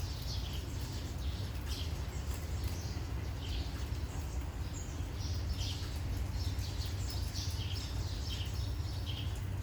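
Birds chirping in short, repeated calls every second or so, over a steady hiss of falling rain.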